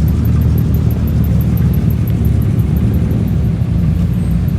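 Car engine running steadily at low revs, a deep even rumble, as cars drive in at low speed.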